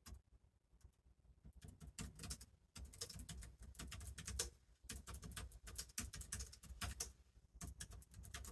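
Typing on a computer keyboard. A few scattered key clicks give way, about two seconds in, to fast runs of typing with short pauses.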